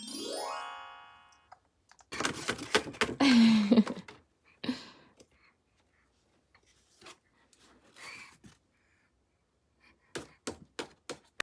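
A rising electronic sound effect from a children's sound toy, followed by a cluster of knocks and clattering as the toy is handled, with a short low falling tone among them, and a quick run of light taps near the end.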